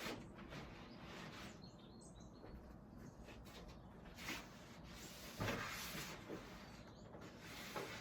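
Faint outdoor ambience with a few small, distant bird chirps and occasional soft rustling swells.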